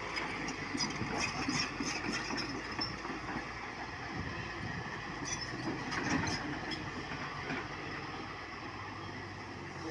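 Tata Hitachi Super 210 excavator working: its diesel engine runs steadily under load, with bursts of knocks and clanks about a second in and again around five to six seconds in.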